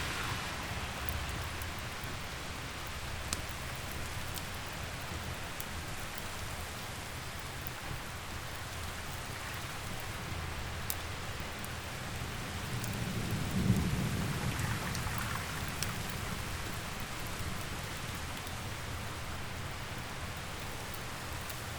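Steady rain with a low roll of thunder that swells to its loudest about two-thirds of the way through. A wood fire adds scattered sharp crackles and pops.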